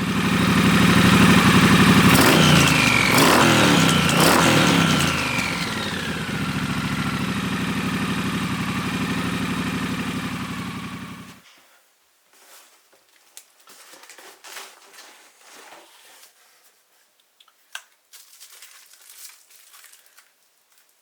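Triumph Bonneville Bobber Black's 1200 cc parallel-twin engine running through a Motone aftermarket exhaust, revved up and back down a few times in the first seconds, then idling steadily. It stops abruptly about halfway through, leaving only faint scattered ticks.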